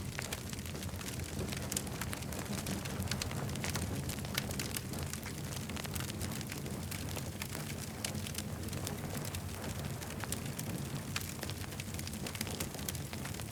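Campfire burning, with frequent sharp crackles and pops from the burning wood over a steady low rumble of the flames.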